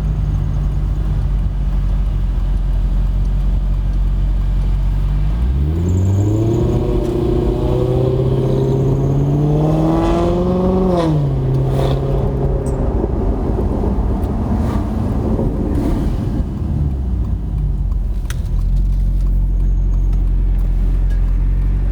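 Maserati GranTurismo 4.2-litre V8 through a Kreissieg aftermarket exhaust, running low and steady, then revving up and rising in pitch for about five seconds. It drops back about halfway through and settles to a low steady run again near the end.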